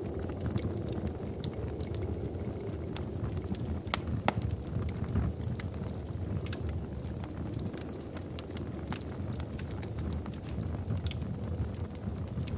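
Wood fire in a fireplace crackling, with irregular sharp pops and snaps over a low steady rumble of the burning logs; a louder pop about four seconds in.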